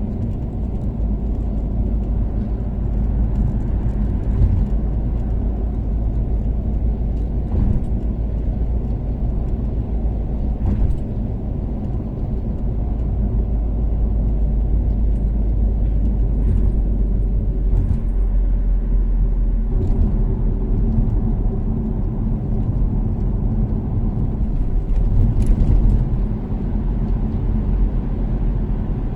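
Toyota Caldina ST246W with a turbocharged 3S-GTE inline-four cruising on an expressway: a steady, low engine and road drone, with a few faint ticks.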